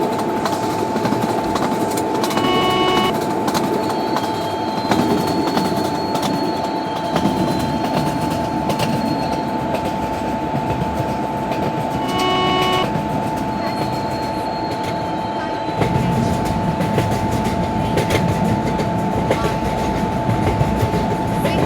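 A train running through at speed, with continuous wheel-and-rail rumble and clatter and a steady high tone held throughout. Two short tonal blasts come about 2.5 seconds and 12 seconds in, and the low rumble grows heavier about 16 seconds in.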